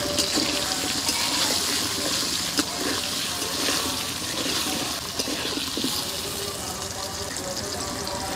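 Potato chunks sizzling as they fry in hot oil in a metal kadai. A few scrapes and taps come from the spatula stirring them.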